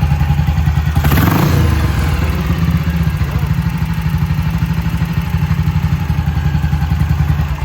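1956 BSA Gold Star DB34's single-cylinder engine running at a steady, even beat, with a brief louder burst about a second in.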